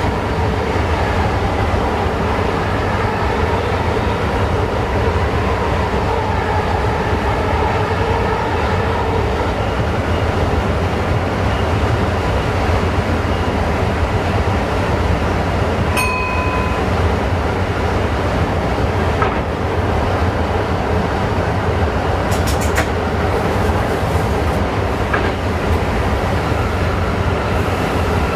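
Train running steadily at speed, heard from inside the driver's cab: a constant rumble of wheels and running gear. About halfway through, a short electronic beep sounds, and a few sharp clicks follow later on.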